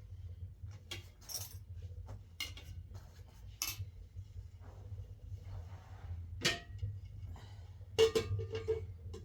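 Scattered clinks and knocks of dishes and utensils being handled, over a low steady hum. The loudest is a ringing clink about eight seconds in.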